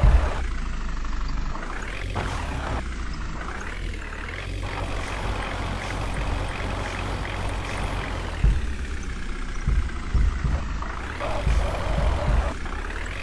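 Tractor engine running, a steady low rumble with a few sharp low thumps in the second half.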